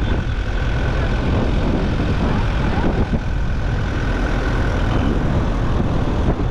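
A car driving along a road, heard from inside: steady engine and tyre noise, with a faint steady high whine.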